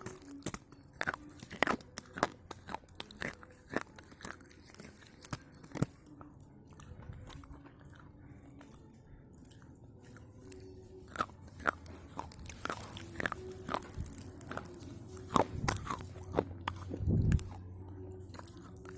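A person biting and chewing slate pencils: a run of sharp, irregular crunches and snaps, sparser for a few seconds in the middle, then coming thick again, with a dull thump near the end.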